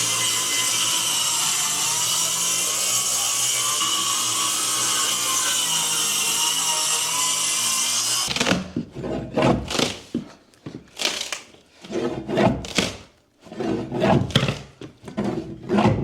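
Power saw cutting wood, running steadily for about eight seconds, then cutting in short, irregular bursts.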